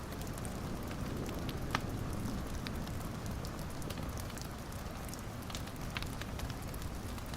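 Fire in a fireplace burning with a steady low rumble and scattered sharp crackles and pops, the loudest pop a little under two seconds in.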